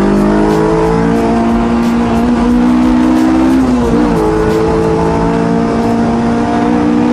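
Honda Integra Type R (DC5) K20 four-cylinder engine pulling under acceleration, its pitch climbing, then dropping with an upshift about four seconds in and holding steady after.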